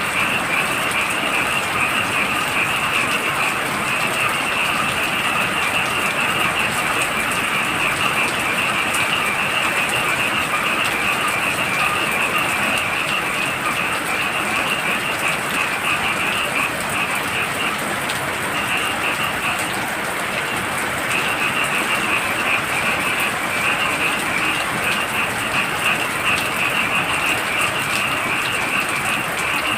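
Heavy rain falling steadily, with a dense chorus of frogs calling in a fast, pulsing high trill over it; the chorus breaks off for a few seconds a little past the middle, then resumes.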